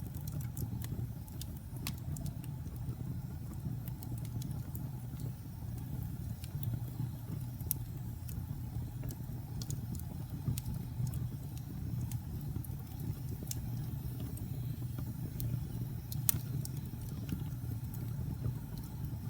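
Wood fire crackling in a fireplace: a steady low rumble with scattered sharp pops and snaps, one louder pop late on.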